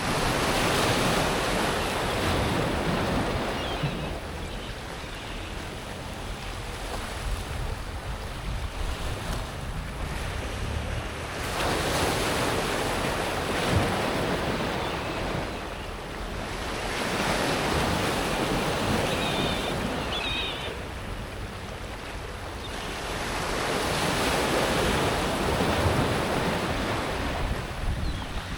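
Sea waves breaking and washing up and back over a pebble beach, the surf swelling and easing in slow surges several seconds apart.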